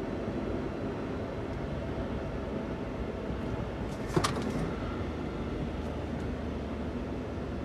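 Daihatsu Hijet kei van with stock intake and exhaust driving along: steady engine and road noise, with a brief sharp clatter about four seconds in and a low steady engine hum coming up just after.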